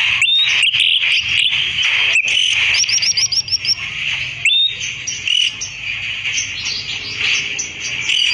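A songbird calling in short, quick rising chirps, with a fast run of about seven near the middle, over a steady shrill insect drone.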